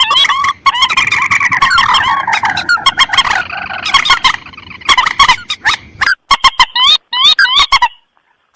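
Bird-lure recording of rice-field rail calls, mandar and tikusan (a rail and a crake), played on a loop: many calls overlap in a dense chorus for the first half, then short hooked notes repeat in quick runs and break off shortly before the end.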